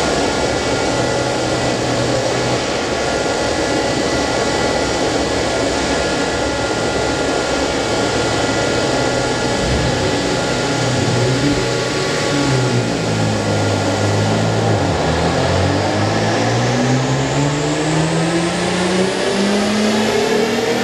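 Mitsubishi 6A12 MIVEC 2.0-litre V6, swapped into a 1993 Honda Civic, running at a fairly steady speed. About two-thirds of the way in its note drops, then rises steadily as the engine revs up under acceleration.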